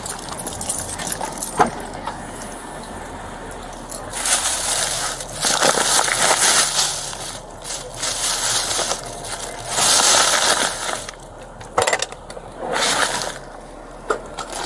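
Handling noise: several bursts of rustling and crinkling a few seconds long, with a few sharp clicks and clinks between them.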